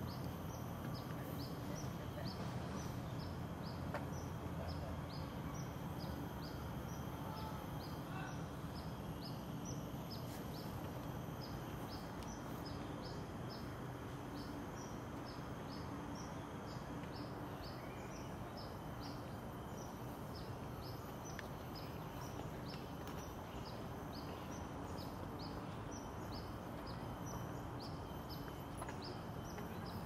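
A bird calling with a long, regular series of short, high, falling chirps, about two to three a second, over a steady low background noise.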